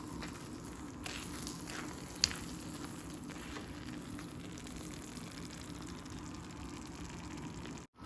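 Food frying in a pan: a steady, quiet sizzle with small crackles and one sharp click about two seconds in.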